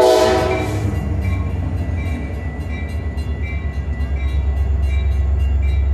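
Metra commuter train passing a grade crossing, heard from inside a stopped bus: the train horn ends about a second in, then a steady low rumble runs on under a crossing bell dinging about twice a second.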